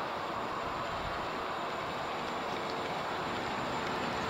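Road traffic passing on a bypass: a steady rush of tyres and engines that grows a little louder near the end.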